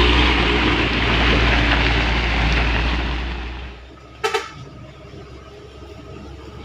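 A Hino truck's engine running loudly under load on a climb, fading away about three and a half seconds in. A brief double toot, like a horn, follows soon after.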